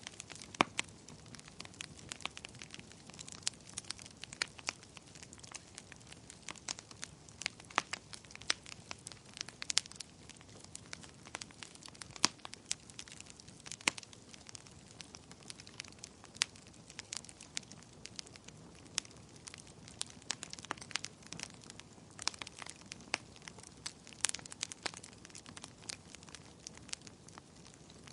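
Fire crackling: irregular sharp pops and snaps, some loud, over a soft steady hiss.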